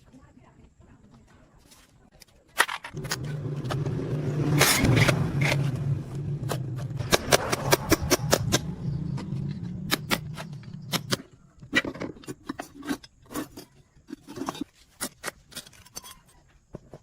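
A machine hum starts about three seconds in and runs steadily for about eight seconds, with many sharp metallic clicks and knocks over it. It stops near the middle, and scattered clicks and taps follow.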